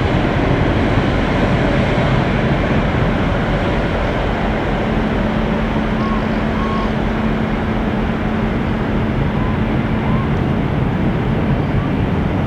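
Ferry Viking Grace's funnel giving off an odd sound: a steady rushing noise, with a steady low hum that sets in about four seconds in and stops about ten seconds in.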